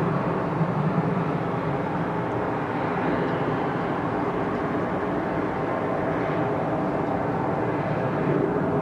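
Boeing 737 jet airliner's engines on landing approach: a steady rushing jet drone with several steady hums in it.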